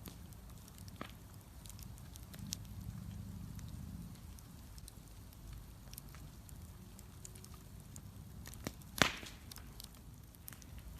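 Wood bonfire burning with scattered sharp crackles over a low steady rumble, and one loud pop about nine seconds in.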